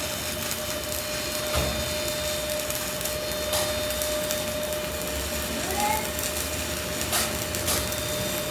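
Metal lathe running with a steady motor whine under a rough machining noise, marked by a few sharp ticks. The machine is left running until it is told to be switched off.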